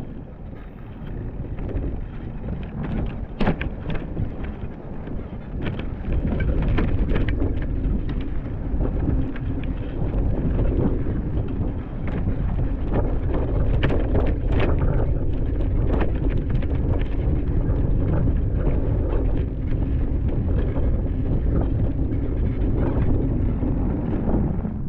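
Wind buffeting the microphone during a bicycle ride through snow: a low rumble that grows louder about six seconds in, with scattered clicks and knocks and a faint steady hum underneath.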